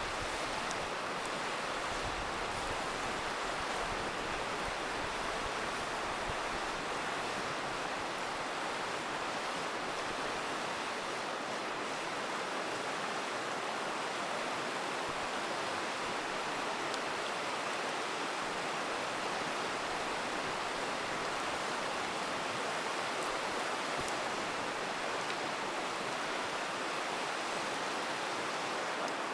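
A river rushing in a steady, unbroken wash, with a few faint crackles from a wood campfire.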